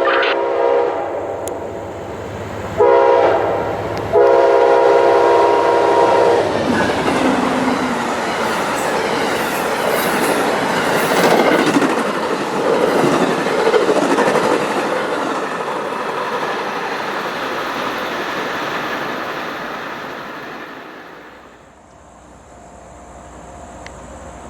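CSX freight locomotive horn sounding the end of a crossing signal: the tail of a long blast, a short blast, then a long blast. The train then passes close by, wheels clattering and cars rattling on the rails, before the sound fades away near the end.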